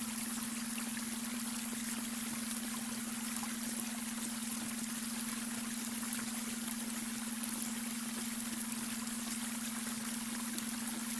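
Babbling brook water running steadily over stones, with a steady low hum tone underneath: the beta brainwave tone mixed into the soundscape.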